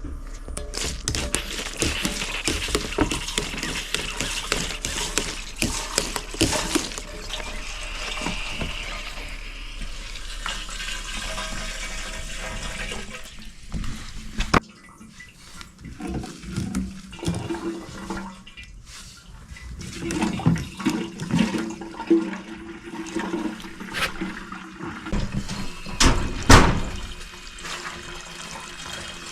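Kerosene running through a manual hand pump into an oil fan heater's tank, a steady rushing gurgle for about the first half. About halfway through a sharp click, then broken, quieter gurgles and a few knocks.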